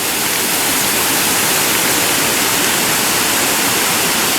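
Steady, even hiss with no distinct events, like rushing water.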